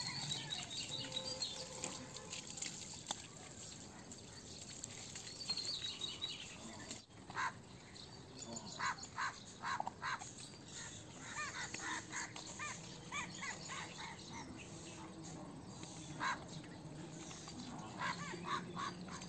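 Birds chirping, with short repeated calls and little trills over faint outdoor background noise.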